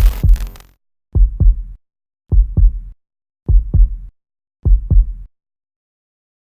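A heartbeat-style sound effect: five low double thumps, each a lub-dub pair, evenly spaced a little over a second apart. The first comes with a sharp, bright hit.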